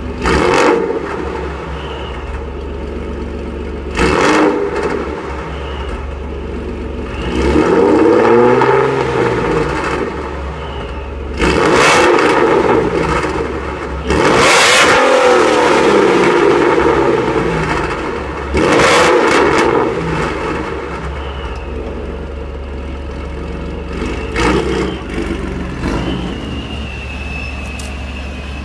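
Supercharged Ford 3.7-litre V6 with Borla longtube headers, an off-road X-pipe and a Borla ATAK cat-back, running loud. It idles and is revved about seven times: quick blips and several revs held for two or three seconds, each falling back to idle.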